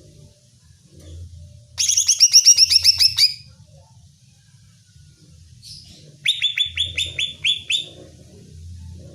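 Cucak ijo (green leafbird) singing two bursts of fast, repeated down-slurred notes, the first about a second and a half long and the second a little shorter, a few seconds apart.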